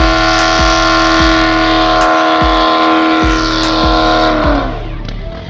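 Car engine held at steady high revs while the tyres squeal in a burnout. Near the end the squeal stops and the revs fall away.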